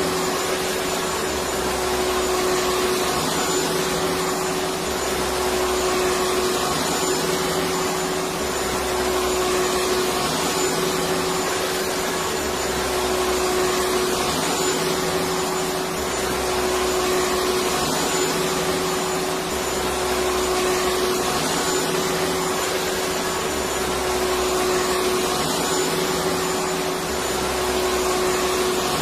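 Electric vacuum cleaner running continuously: a steady whooshing hiss over a constant motor whine, with no change in speed.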